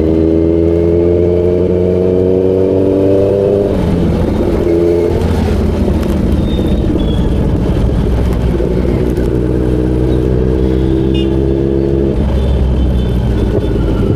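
Kawasaki Z900's inline-four engine running under steady throttle, its note rising slowly in pitch. The note drops about four seconds in, climbs again later, and drops once more about two seconds before the end.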